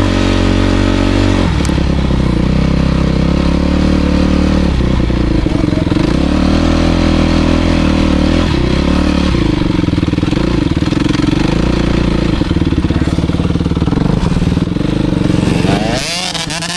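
Motocross bike's engine running under changing throttle, its pitch stepping up and down. Near the end it drops off briefly, then revs back up.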